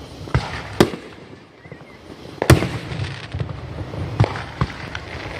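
Aerial fireworks going off: a string of sharp booming bursts, the loudest about halfway through, with smaller pops and crackling between them.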